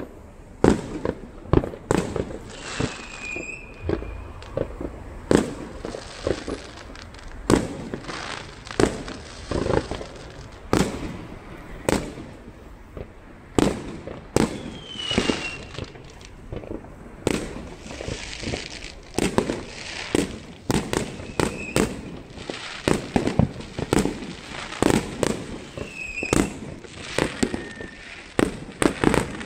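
Fireworks going off all around: a dense, irregular stream of bangs and cracks, with several short whistles from rockets rising.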